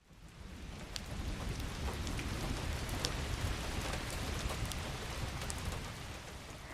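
Steady rain falling, with scattered individual drops ticking over a low rumble. It fades in at the start and eases down near the end.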